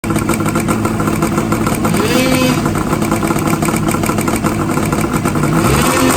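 Race snowmobile's 440cc two-stroke engine running during a pre-race warm-up, with the revs rising briefly about two seconds in and again near the end.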